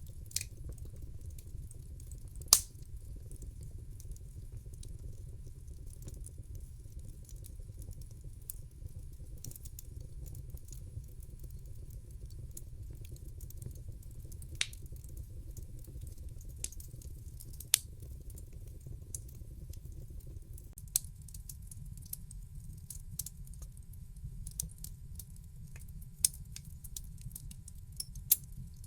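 Wood fire burning in a fireplace: a steady low rumble of flames with scattered sharp pops and crackles, one loud pop about two and a half seconds in and a quicker run of small crackles in the last third.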